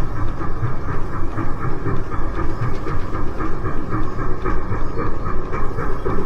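Off-road vehicle engine running under load, with steady rumbling and fast, repeated rattling.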